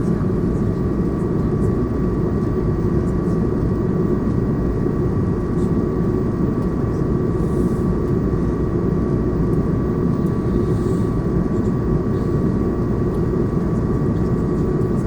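Steady in-flight cabin noise of an Airbus A220 with Pratt & Whitney PW1500G geared turbofan engines: a deep, even rush with a thin steady high tone above it.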